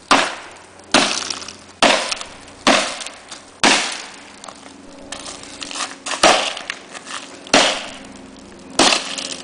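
A hammer repeatedly striking and smashing the double-pane glass of a sliding glass door: about nine hard blows roughly a second apart, each with a crash of breaking glass that trails off.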